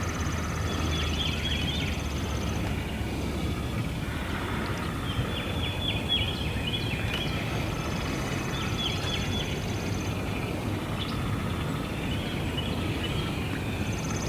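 Open-air ambience with a steady low wind rumble. Over it, birds chirp in several short spells.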